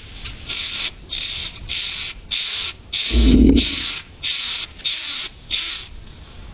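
Coucal chick giving harsh, rasping hisses, about ten in a row at an even pace, with one low thud about three seconds in.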